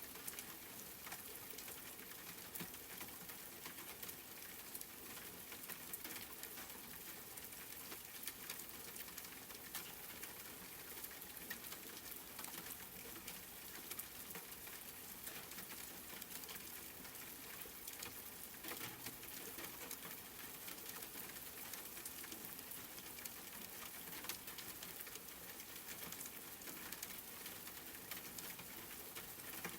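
Steady rain pattering: an even hiss dotted with many small, sharp drop ticks.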